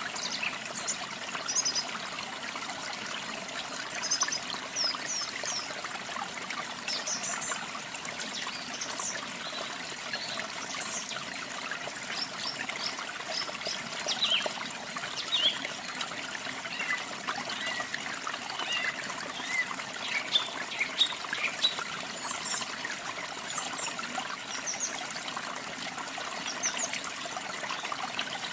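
Steady trickling water, with small birds chirping in short, quick notes throughout.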